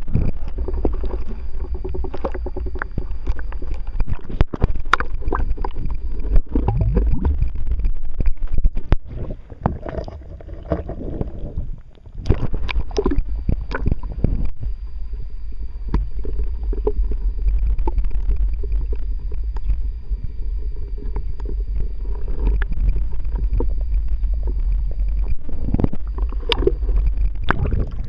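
Water moving against a kayak hull, heard through an underwater camera: a heavy deep rumble with frequent knocks and clicks, and a faint steady high whine. It eases off for a couple of seconds in the middle.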